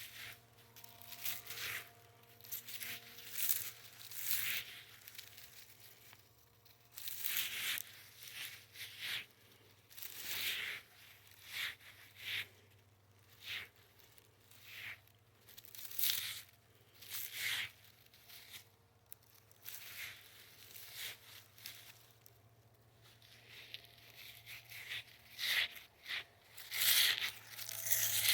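Short, sharp tearing or crackling noises made by hand, repeated irregularly about once a second.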